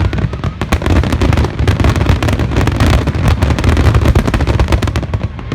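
Fireworks going off in quick succession: a dense run of sharp crackling bangs over a continuous low rumble.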